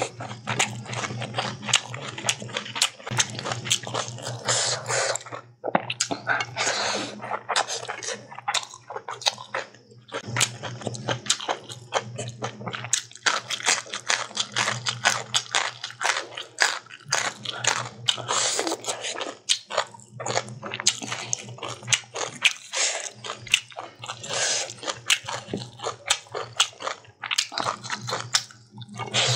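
Close-miked eating by hand: chewing, wet mouth smacks and crunching of rice, chicken, long beans and cooked greens, with many quick clicks and a few short pauses between mouthfuls.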